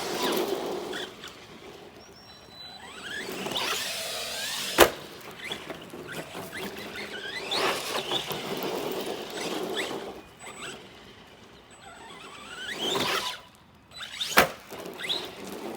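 Arrma Granite 3S RC monster truck's brushless electric motor whining up and down in pitch through repeated bursts of throttle. Two sharp knocks, about five seconds in and near the end, are the loudest sounds.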